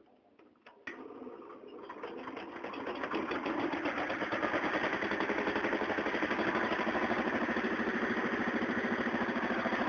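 Ford 100 garden tractor engine being fired up: it starts about a second in, builds over a few seconds, then runs steadily with a fast, even beat.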